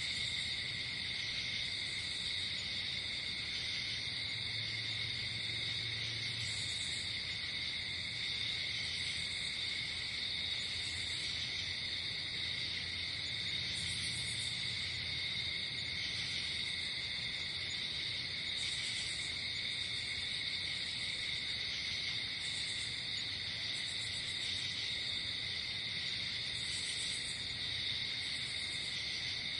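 Night insect chorus: crickets trilling steadily, with short, higher-pitched chirps from other insects coming in every second or two.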